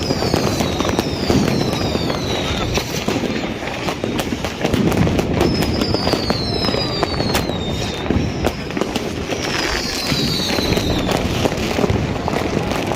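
Fireworks going off all around: a dense run of firecracker cracks and bangs, with several whistling rockets, each whistle falling in pitch, heard three times.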